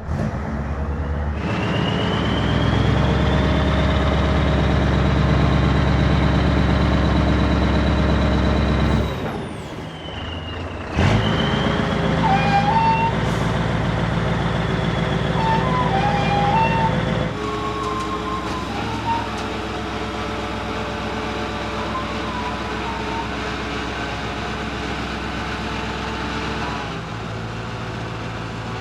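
Scania 143 V8 diesel truck running with the power take-off driving the tipper's hydraulic pump. A high whine rises over the engine sound and holds. It stops for a couple of seconds about nine seconds in, comes back with a sudden start, and the whole sound drops a step about seventeen seconds in.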